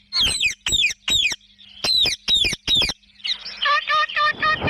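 Ringneck parrots calling: a string of loud, harsh calls, each falling in pitch, two or three a second, with a short pause about a second in. From about three seconds in comes a faster run of short chattering notes, several a second.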